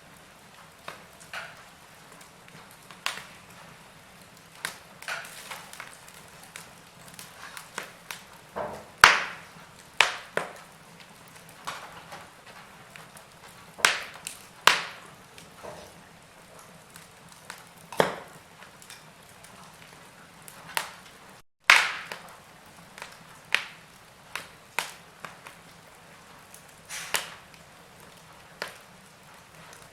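Wood fire in a fireplace crackling, with irregular sharp pops of varying loudness over a low steady hiss. The sound cuts out for an instant about two-thirds of the way through.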